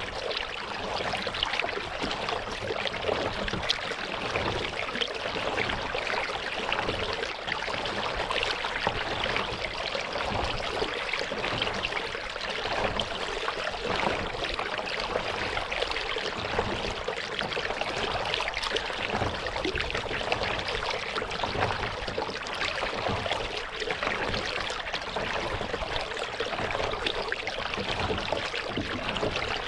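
Lake water trickling and splashing steadily around a kayak, with no pauses.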